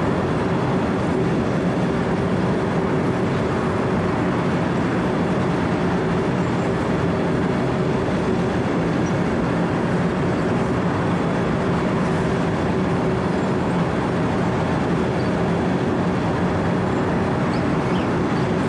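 Wirtgen W 120 CFi cold milling machine cutting asphalt: its diesel engine runs at a steady working drone while the cutting drum grinds away the road surface. The noise stays even and loud throughout, with a constant engine hum under the grinding.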